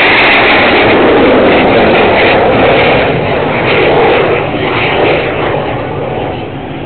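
Airplane flying past loud and close, a rushing engine noise that fades away over the last couple of seconds.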